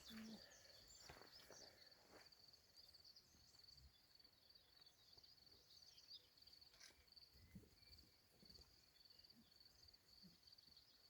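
Near silence with faint, steady cricket chirping, a fast pulsing high trill that runs on without a break. There are a few soft rustles and clicks in the first couple of seconds.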